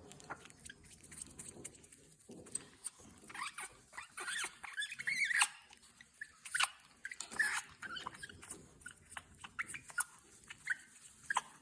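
African grey parrot making scattered short clicks and brief wavering chirps, busiest through the middle.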